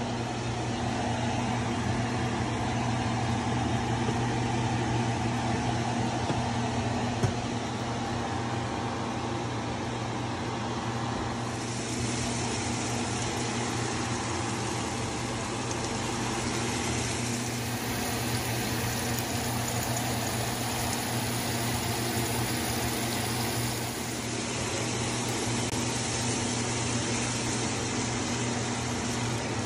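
Steady electrical hum and fan noise from kitchen appliances, with a low droning tone throughout. A brighter hiss joins about twelve seconds in.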